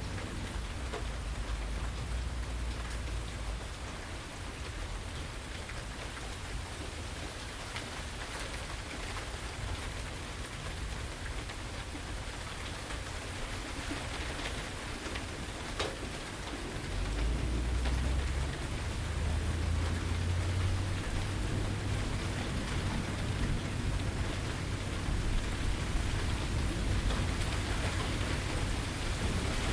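Steady rain falling, an even hiss of drops, with a low rumble underneath that grows louder about halfway through and stays. A single sharp tick stands out near the middle.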